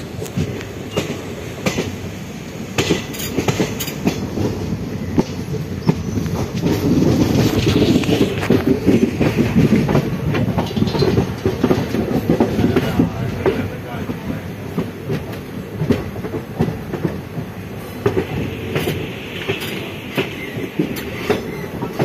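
Moving train heard from an open coach doorway: steady running rumble with wheels clicking over rail joints and points. The rumble grows louder for several seconds midway.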